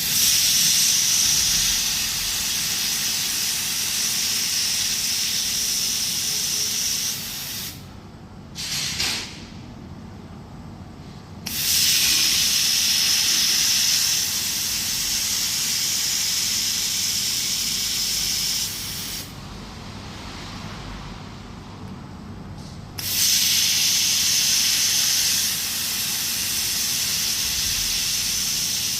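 A 2000 W automatic fiber laser welding machine hissing in cycles. There are three long runs of about six to eight seconds, each loudest for its first couple of seconds, with a short burst between the first two and quieter gaps of a few seconds between them.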